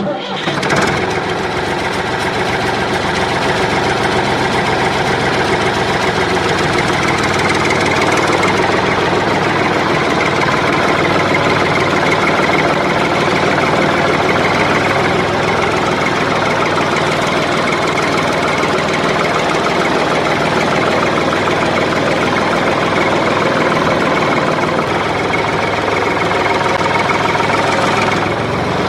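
An engine running steadily at an even idle-like speed. It cuts in abruptly and holds unchanged throughout.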